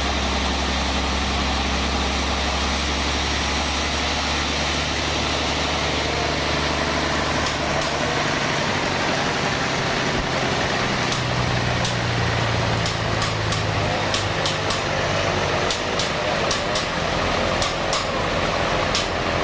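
Sawmill band saw machinery running steadily with a low engine hum that shifts pitch about eight seconds in, and a scatter of short sharp ticks in the second half.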